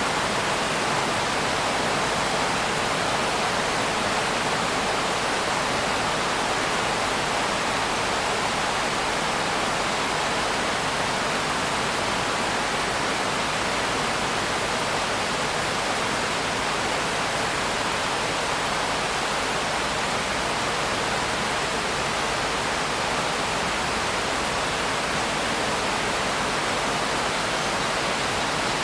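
Steady, even rain noise with no individual drops or changes standing out.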